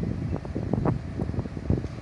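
Wind buffeting the microphone: a low rumble with irregular gusty thumps.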